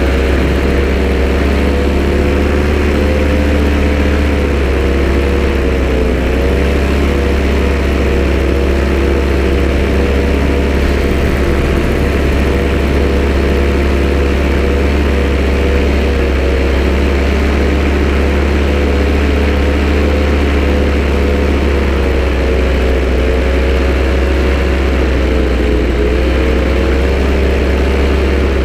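A vehicle engine running steadily at idle, its pitch dipping slightly about six seconds in and again near the end.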